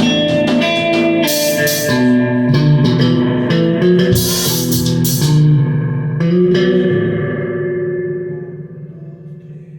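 Electric guitar through effects playing a passage with drum kit hits, the drums striking sharply several times in the first six seconds. From about seven seconds in the playing stops and the last guitar notes ring and fade away.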